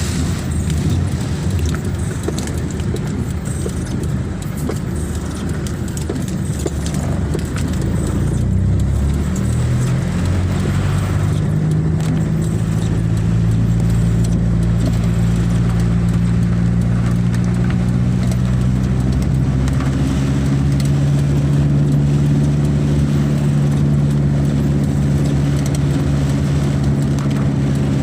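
A motor vehicle engine running under a dense low rumble. From about ten seconds in, a steady engine hum comes through clearly and rises slowly in pitch.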